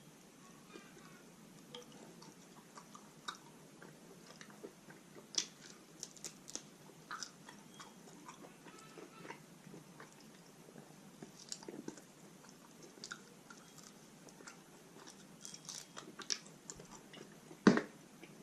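Close-miked chewing and biting of roast chicken, quiet wet mouth clicks and smacks scattered throughout. A single louder knock comes near the end.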